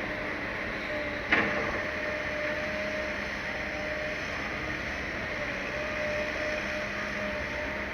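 Excavator working: diesel engine and hydraulics running steadily with a thin whine, and one sharp knock a little over a second in.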